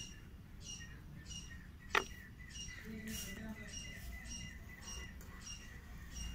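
A small bird chirping over and over, short chirps evenly spaced a little under two a second. A single sharp click about two seconds in.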